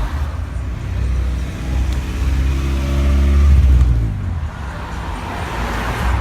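Car engine accelerating, building to its loudest about three and a half seconds in, then easing off.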